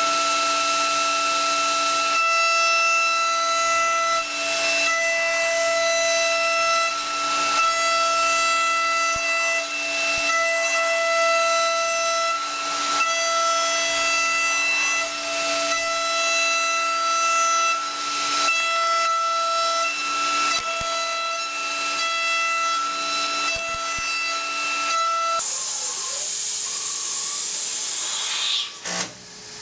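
High-frequency spindle of a DATRON M8Cube CNC mill whining at a steady pitch over a hiss while high-speed milling aluminium. About 25 seconds in the whine stops and a loud hiss follows, which cuts off sharply near the end.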